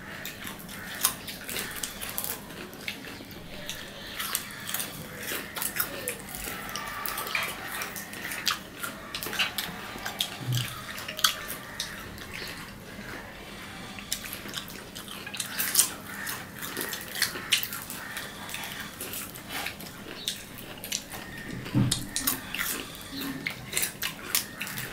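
Close-up eating sounds of two people biting and chewing crisp green amra (hog plum) fruit: many irregular crunches and mouth smacks.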